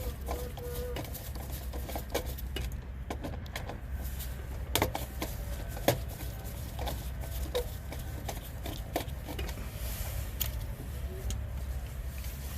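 Wire cutters and strippers clicking and snipping while control wires are cut and stripped for a new contactor, with a steady low rumble underneath; the two sharpest snaps come a little under five and six seconds in.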